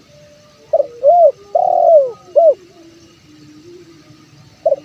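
Spotted dove cooing. It gives one phrase of four notes starting about a second in: a short note, a rising-and-falling note, a long falling note and a short final note. The next phrase begins right at the end.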